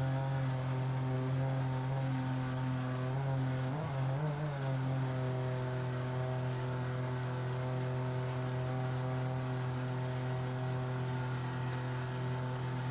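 Outboard jet motor on a small river jet boat, running at a steady cruising speed as a constant pitched drone, with a brief wavering in pitch about four seconds in.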